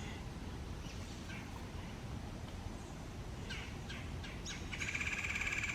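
Wild bird calling in woodland: a few short chirps, then from about five seconds in a louder rapid trilling call.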